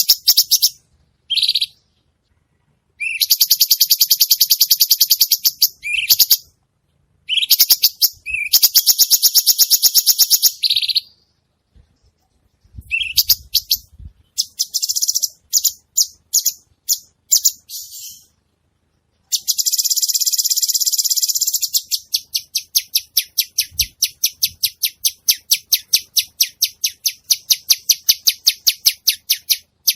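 A caged cucak cungkok songbird singing in bursts of very fast, high-pitched trilled chatter, each lasting one to a few seconds with short pauses between them. In the last third the notes run on as a steady rapid rattle.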